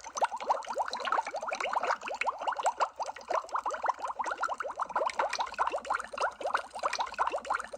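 Underwater bubble sound effect: a dense, continuous stream of small bubbles, each a short rising blip, many per second.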